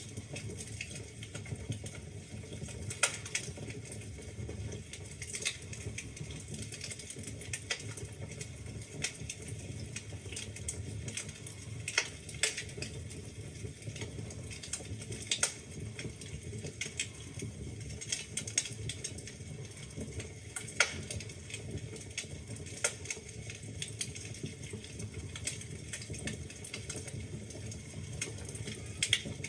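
Wood fire burning in a fireplace: a steady low rumble and hiss with irregular crackles and sharp pops from the burning logs, a few louder snaps scattered through.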